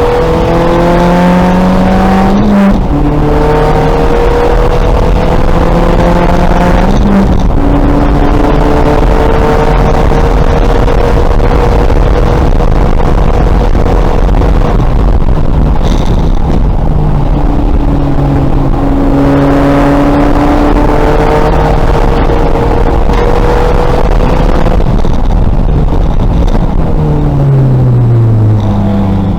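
2000 VW Golf race car engine under hard acceleration, its pitch climbing and dropping back at gear changes about two and a half and seven seconds in, then climbing long and slowly. Near the end the pitch falls steeply as the car brakes and downshifts.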